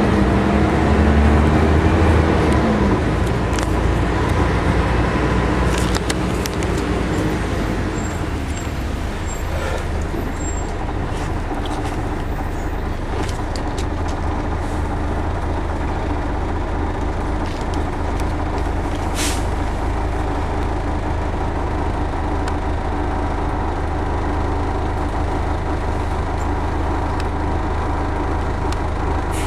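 Scania L113-CRB bus's 11-litre six-cylinder diesel engine running under way. Its pitch climbs in the first couple of seconds, falls away around eight seconds in, then holds steady. There is a brief hiss about nineteen seconds in.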